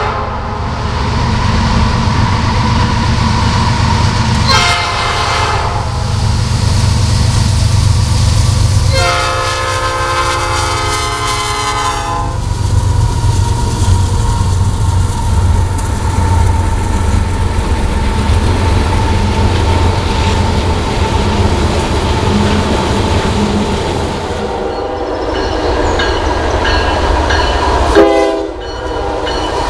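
Freight train diesel locomotive horn sounding, a short blast about four seconds in and a longer one of about three seconds near nine seconds in. The train's cars then rumble and clack past on the rails, steady and loud, and near the end another locomotive's horn starts.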